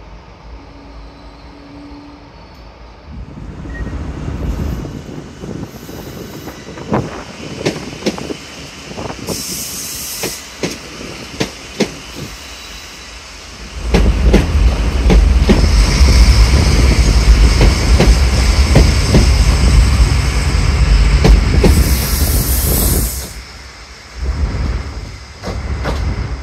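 DART 8510 class electric train running on the rails. First comes a rising rumble with a run of sharp clicks from the wheels on the track. About halfway through, a sudden loud, heavy rumble sets in as the train pulls away past the platform, with short bursts of high hiss. It drops off near the end.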